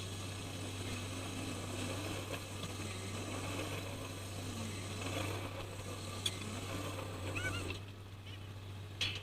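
Fishing trawler's engine running with a steady low drone under mechanical deck noise and a few clicks. A few short high squeaks come about seven seconds in, and the higher noise falls away shortly before the end.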